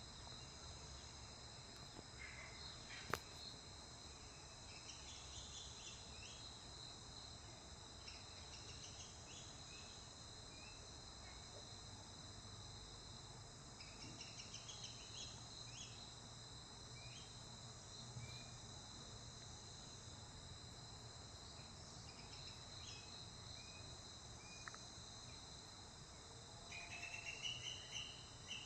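Faint steady high-pitched insect drone, like crickets, with scattered short series of bird chirps. A louder run of chirps comes near the end, and there is a single sharp click about three seconds in.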